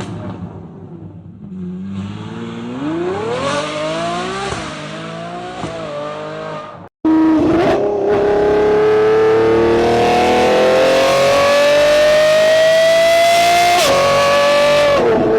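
High-performance car engines and exhausts in two clips. In the first, the engine revs up in pitch, drops and revs again. After a sudden cut, a louder engine pulls hard in one gear, its pitch climbing steadily for several seconds before dropping at an upshift near the end.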